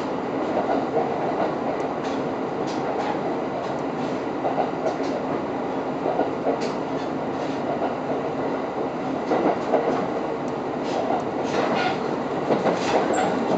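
KiHa 127 diesel railcar running, heard from inside the car: a steady running noise of wheels on rail and engine, with scattered clicks as the wheels pass over rail joints, a few more of them near the end.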